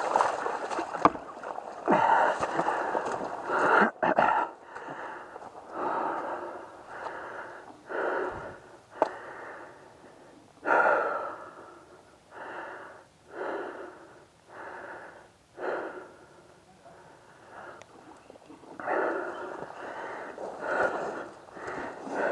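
A person breathing hard, one heavy breath about every second, close to the microphone.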